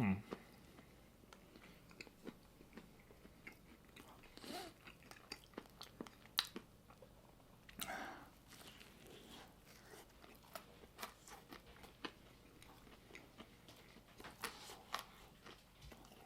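A person chewing a crunchy chicken sandwich with barbecue sauce close to the microphone: soft crunches and wet mouth clicks, with louder ones about four and a half and eight seconds in.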